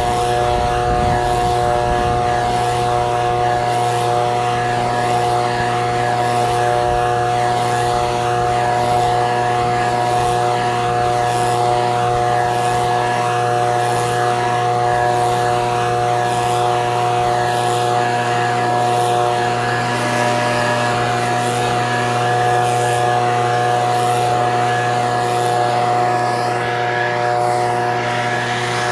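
Echo PB-2620 handheld leaf blower's two-stroke engine and fan running steadily at one speed, with a loud, even hum.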